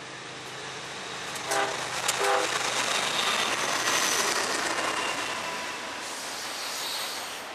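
Norfolk Southern freight train passing close by. The lead diesel locomotive's horn gives two short blasts about a second and a half in, then the locomotives and a string of autorack cars go by in a loud rush of engine and wheel noise that gradually fades.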